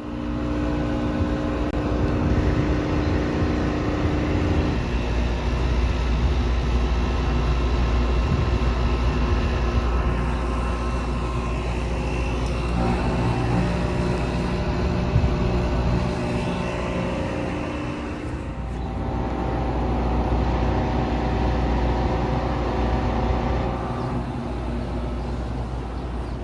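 Outdoor heat pump condensing units running in cooling mode: a steady compressor hum and fan noise with several humming tones. The mix of tones changes a few times.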